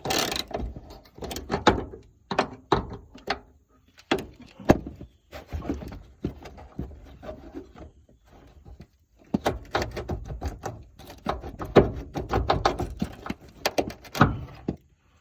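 Hand ratchet clicking in rapid runs of short strokes as a nut on the fuel tank hanger is backed off, with a short pause about halfway through. The nut is getting hard to turn toward the end of its thread.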